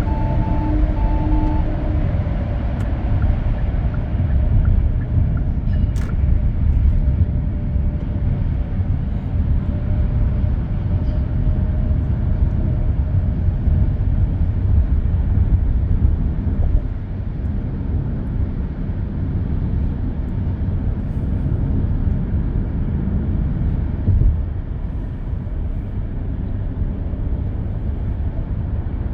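Car driving at speed on an expressway: steady low tyre and road rumble with engine and wind noise, heard from inside the cabin. A few short electronic beeps sound in the first two seconds.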